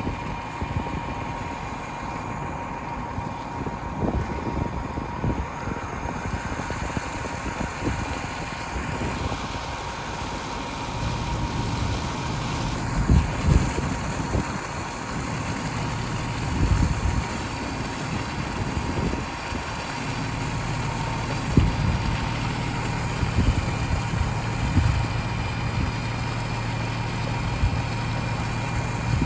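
Fire engine idling steadily, with a constant rushing noise and occasional low thumps over its hum.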